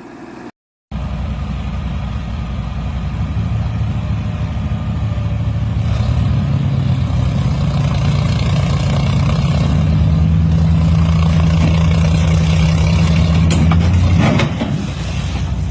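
A large engine of heavy machinery running steadily with a deep hum, getting louder over the first few seconds and holding, then dropping off abruptly about fourteen seconds in, followed by a couple of short knocks.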